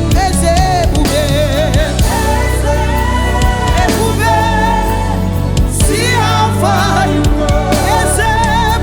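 Gospel praise and worship music: a singer's voice with wide vibrato over a band with steady bass and drums.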